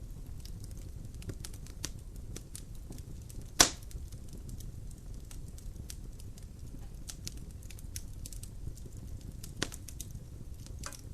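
Wood logs burning in a fireplace, crackling with scattered small clicks over a low steady rumble of the fire. One loud pop comes about three and a half seconds in, and a smaller one about nine and a half seconds in.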